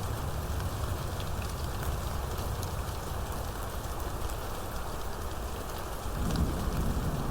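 Steady rainfall with individual drops ticking, over a low thunder rumble that swells about six seconds in.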